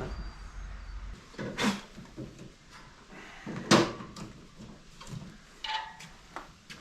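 A few scattered knocks and clunks, roughly one every second or so, the loudest a little past the middle, with a low rumble in the first second.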